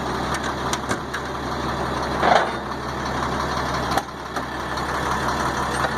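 Freightliner truck's diesel engine idling steadily, with a few light clicks and a short louder clunk about two seconds in.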